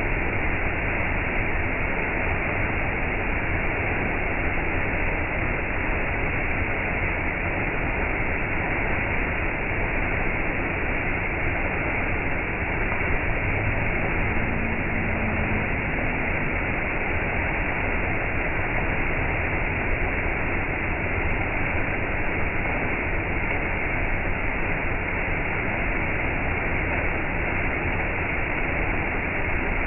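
Waterfall's steady rush of falling water, dull-sounding with no high hiss.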